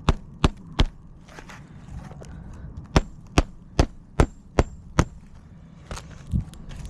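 Hammer driving roofing nails through asphalt shingles: three quick blows, a pause, then six steady blows at about two and a half a second, and one duller thump near the end.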